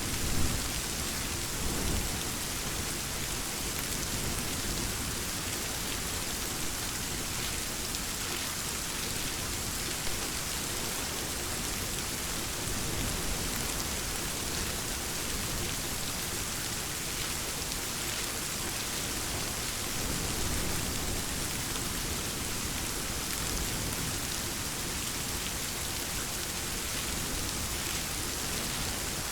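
Steady rain falling on a surface, a continuous hiss of drops, with low thunder rumbling underneath at times and a brief louder crack just after the start.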